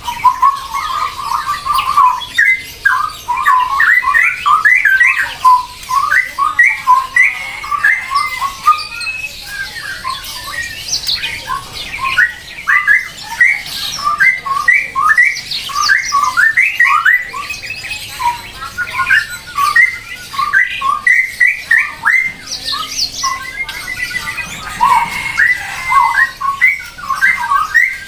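Birds squawking and chirping: a dense run of short, sharp calls, many overlapping, with a few higher whistled glides mixed in.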